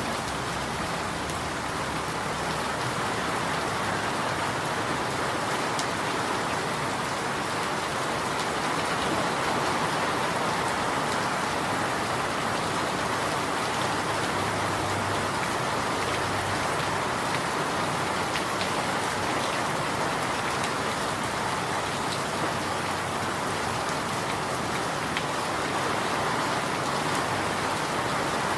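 Steady rain falling and pattering on surfaces, an even dense hiss with no change in strength.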